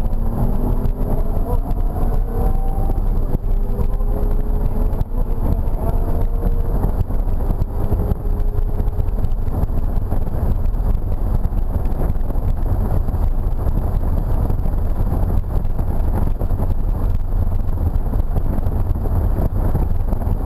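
BMW E46 M3's S54 straight-six heard from inside the cabin at speed, its pitch rising slowly through the first several seconds, then blending into a steady mix of engine, tyre and wind noise.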